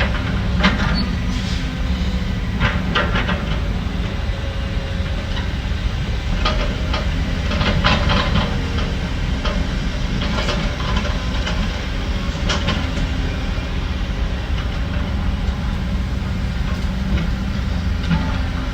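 Heavy diesel earthmoving machinery running with a steady low rumble, with irregular metal clanks and scrapes every second or two.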